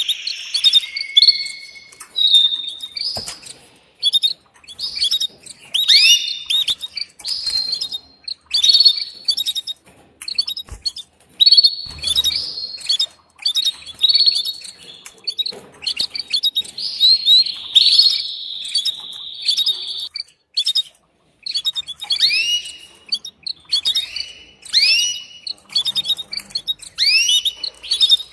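Female canary's mating call to the male: a quick run of short chirps, many sliding down in pitch, mixed with brief trills, broken only by short pauses.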